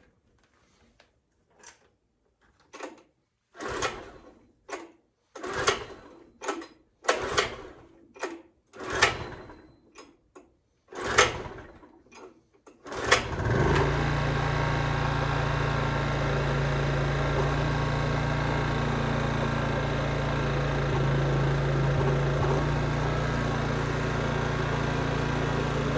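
Recoil starter of a 1980s Honda 650 portable generator pulled again and again on a true cold start with the choke on; the engine catches about halfway through and settles into a steady run.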